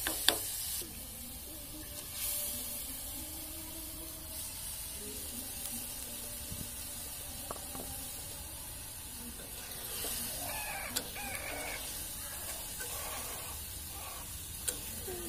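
Spice paste and beef frying in an iron wok over a gas burner with a steady faint sizzle. A metal spatula clinks against the wok twice at the start, and again once or twice later. Chickens cluck in the background, most clearly about ten to twelve seconds in.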